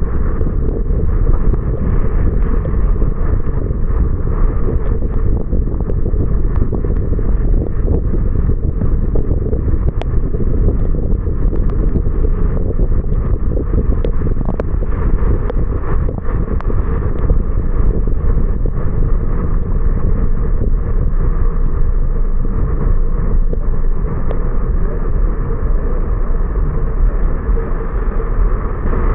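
Steady low rumble of a car driving on rain-wet roads, made up of tyre and engine noise, with a few faint ticks.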